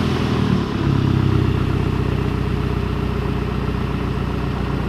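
A car engine idling steadily just after being started; its note shifts and settles into an even idle about a second in.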